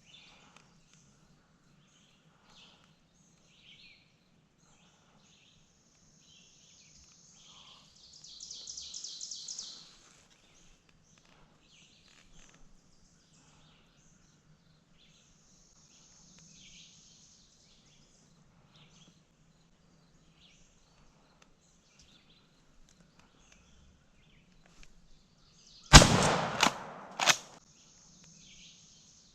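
Quiet woodland with scattered songbird calls and a fast, even trill about a third of the way in. Near the end come three loud, sharp knocks in quick succession.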